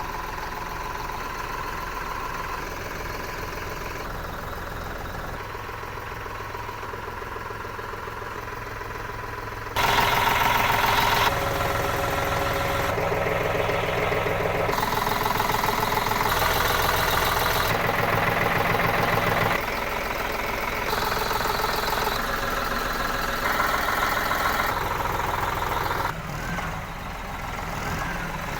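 2021 Eicher 485 tractor's three-cylinder diesel engine idling steadily. It gets louder about ten seconds in, and the level shifts abruptly every few seconds.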